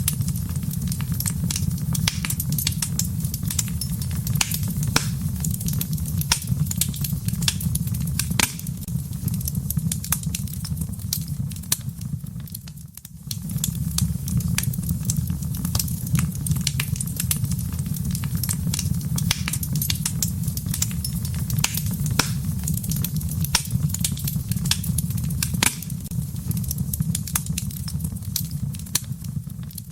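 Wood fire crackling in a fireplace: many sharp pops and snaps over a steady low rumble of burning. The sound briefly drops away about halfway through, then resumes.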